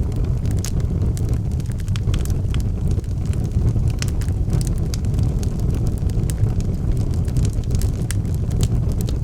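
Wood fire burning in a fireplace: logs crackling with frequent irregular sharp pops over a steady low rush of flame.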